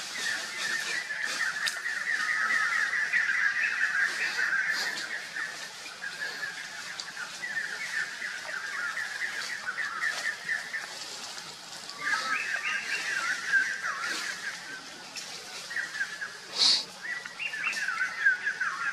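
Birds chirping in fast runs of notes, in bouts a few seconds long with short gaps between them. A brief sharp sound stands out near the end.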